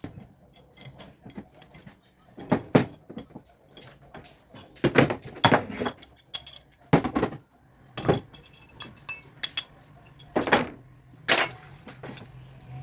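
Metal clinking and knocking in irregular, separate strikes, about a dozen of them, as hand tools and metal parts are handled during a compressor repair.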